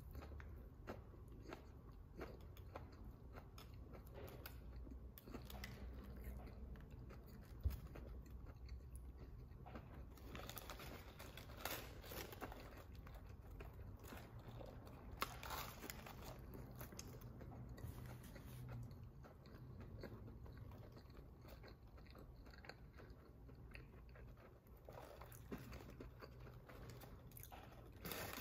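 Faint close-up chewing and biting of a crispy fried chicken sandwich: soft crunches and wet mouth clicks, with one sharp click about eight seconds in.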